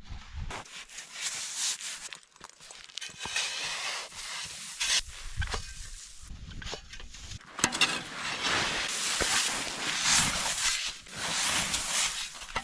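Snow being dug and scraped out of a snow pile to hollow a snow cave: uneven scraping and crunching strokes, busier and louder in the last third.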